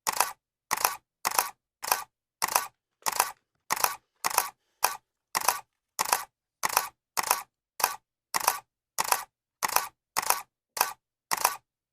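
Camera shutter clicking over and over at an even pace, about one and a half shots a second. Each shot is a quick double click.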